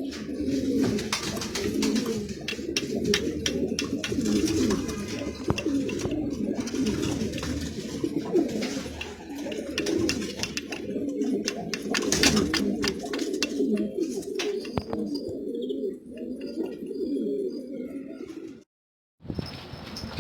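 Many domestic pigeons cooing at once, a continuous overlapping murmur with scattered sharp clicks. The sound drops out briefly near the end.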